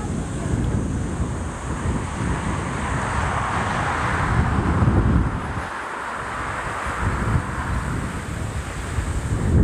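Wind buffeting the microphone in strong gusts, with the rushing engine noise of a jet airliner passing near the runway, swelling to a peak about four to five seconds in and fading.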